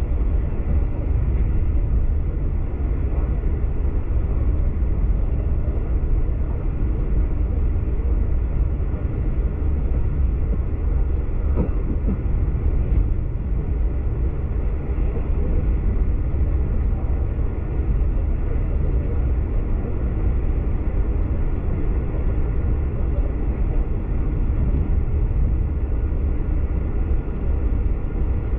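V/Line passenger train running steadily, a constant low rumble of wheels and track heard from inside the carriage.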